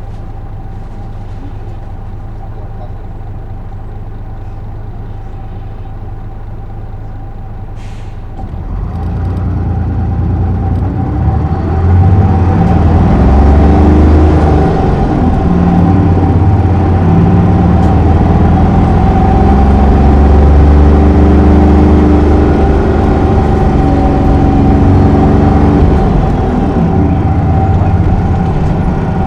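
Isuzu Erga city bus's diesel engine idling steadily, a short hiss about eight seconds in, then the bus pulls away and the engine runs much louder, its pitch rising and dropping several times as it accelerates through the gears.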